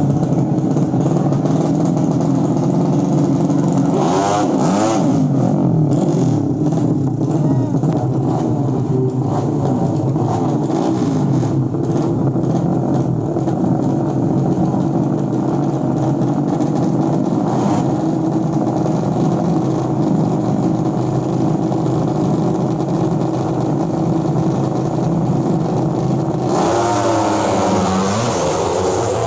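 Engines of 200 cc sleep-engine underbone drag bikes revving and accelerating. Several run at once, with pitch rising and falling as bikes pass, once a few seconds in and again near the end.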